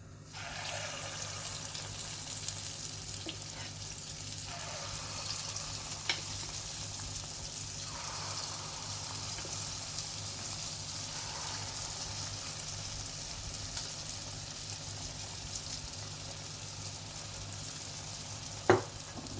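Spoonfuls of multigrain lentil (dal) batter deep-frying in hot oil in a kadhai: a steady sizzle that swells several times. There is a sharp click near the end.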